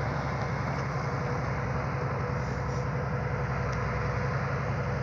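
Heavy 10-wheel truck's diesel engine running steadily, a low, even drone with a faint thin whine above it.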